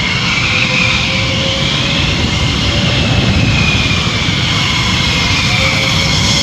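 Jet engine noise from the Thunderbirds' F-16 Fighting Falcon fighters: a steady loud roar with a high whine that rises and falls slightly in pitch.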